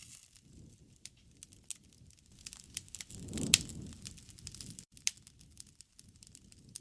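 Wood fire crackling, with scattered sharp pops. About three seconds in, a low rumble swells for a second or so, with the loudest pop in the middle of it.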